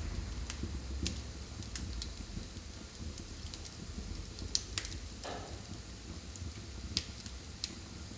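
Wood fire burning in a fireplace: a steady low rumble with scattered sharp pops and crackles, and a short hiss a little past halfway.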